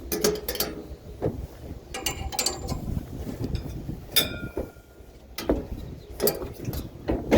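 Hand-handled metal parts clicking and clattering in irregular knocks, with one short metallic ring about four seconds in.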